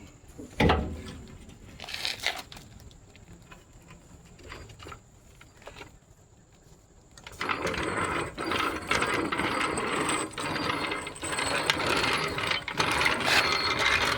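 A heavy thud, a lighter knock, then a long, dense run of metallic ratcheting and clatter starting about halfway through.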